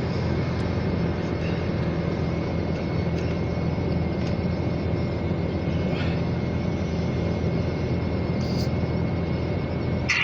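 Steady low engine rumble with a faint, steady high whine above it.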